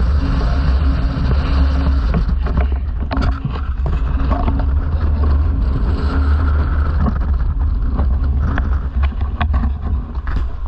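Strong gale-force wind buffeting the microphone: a steady, heavy low rumble with gusty hiss and scattered knocks.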